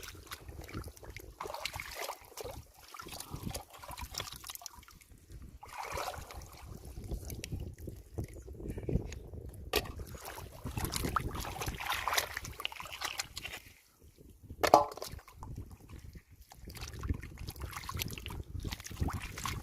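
Shallow water sloshing and splashing in irregular bursts, as from hands and feet working through a flooded rice field. One short, louder pitched sound comes about fifteen seconds in.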